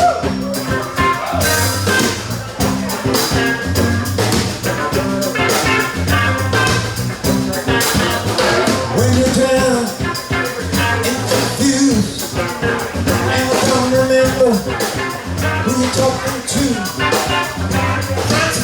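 A band playing an upbeat instrumental intro, with a steady drum beat, bass and other instruments.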